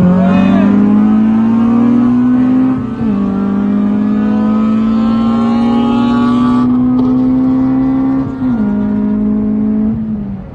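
K20A2-swapped Honda Civic's four-cylinder engine accelerating hard through the gears, its note climbing steadily to high revs. The pitch drops sharply at two upshifts, about three seconds in and about eight and a half seconds in, and the revs fall away near the end.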